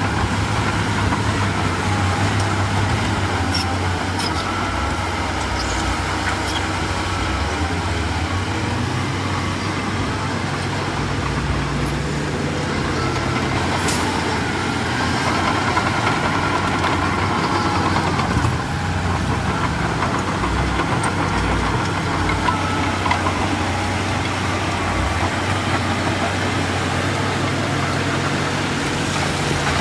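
Diesel engine of heavy earthmoving machinery running steadily, its pitch shifting now and then.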